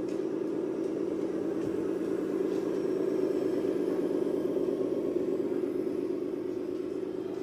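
RC model vehicle running: a steady engine-like drone with a fast pulsing, swelling slightly in the middle.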